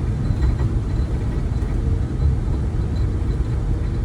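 Steady low road rumble of a moving vehicle, heard from inside the cab.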